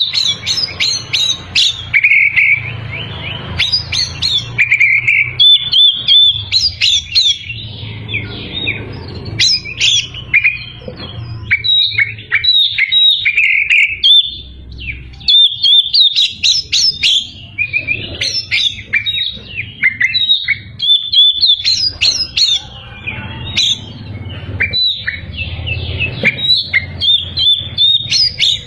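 Oriental magpie-robin singing a loud, varied song of clear whistles, rapid chirps and trills, phrase after phrase with only brief gaps, over a low steady hum.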